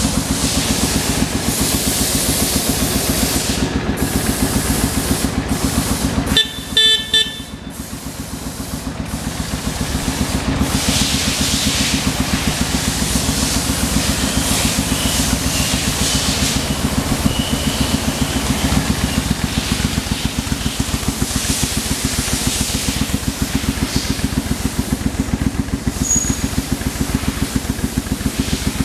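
A Suzuki Intruder VS800's V-twin engine running steadily. About six seconds in, the motorcycle's horn sounds briefly, twice in quick succession.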